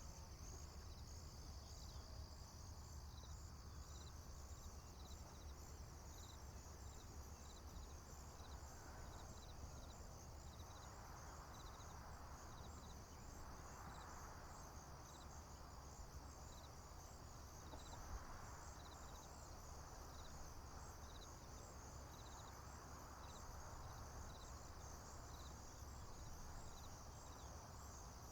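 Crickets and other field insects chirping: a steady high trill with a separate chirp repeating about once or twice a second. Under it runs a faint low rumble, and a soft rushing sound swells and fades in the middle.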